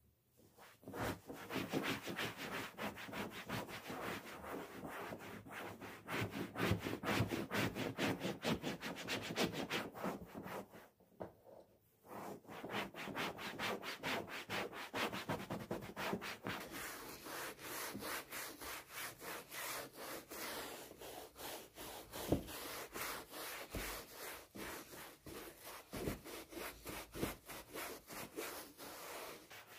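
Rapid, even scrubbing strokes by hand that stop for about a second some eleven seconds in, then go on, with a few light knocks among them.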